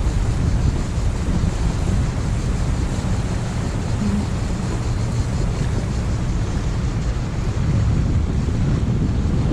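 Wind buffeting the microphone aboard a sailboat, a steady rushing rumble with water noise beneath it.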